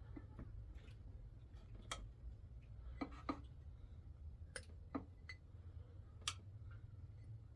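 Eating utensils clinking lightly against dishes: about half a dozen sparse, sharp taps a second or so apart, over a low steady rumble.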